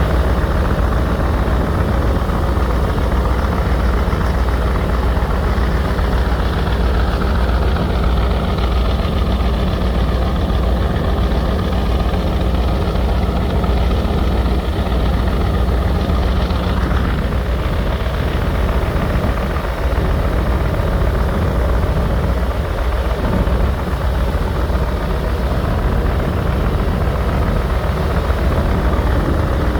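A boat's heavy engine running steadily, a loud, even low rumble.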